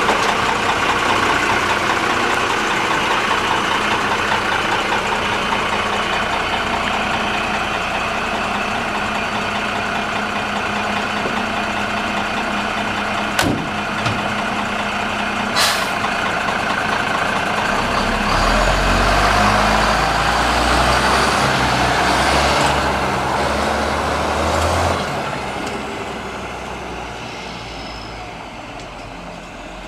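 M931A2 military truck's Cummins 8.3-litre diesel engine running steadily. Two short sharp sounds, likely air releases, come a little past the middle. The engine then gets louder and heavier for several seconds and fades away near the end, as the truck is driven off.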